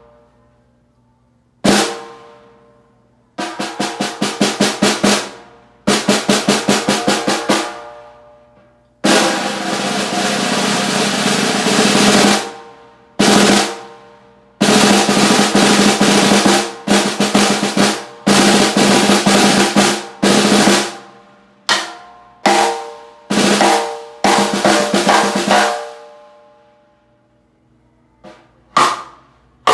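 A 6.5 x 14 inch oak stave snare drum played: single strikes that ring out, quick runs of strokes, a sustained roll that swells for about three seconds, then accented hits and groups of strokes, stopping briefly before a few more hits near the end.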